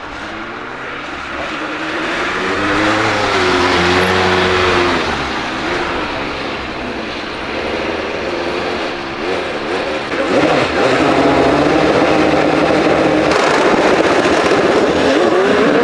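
Single-seater hillclimb race car engine revving hard, its pitch climbing and falling in the first few seconds. About ten seconds in it gets much louder and stays at high revs under full acceleration.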